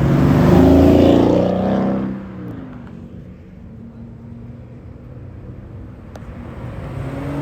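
A car engine revving hard as it accelerates past, its note rising, then fading after about two seconds into a lower steady hum of idling traffic. Near the end another car's engine climbs in pitch as it accelerates.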